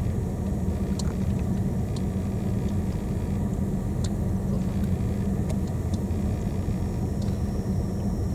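Car engine idling steadily, heard from inside the cabin as a low, even hum, with a few brief high chirps over it.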